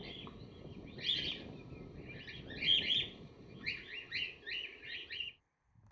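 A flock of cockatiels calling: many short, slightly rising chirps, some in quick clusters, over faint low background noise. The calls cut off suddenly near the end.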